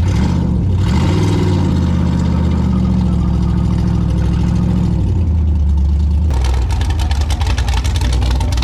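416-cubic-inch LS3 V8 running at a held engine speed. About six seconds in it drops back to a pulsing, lumpy idle.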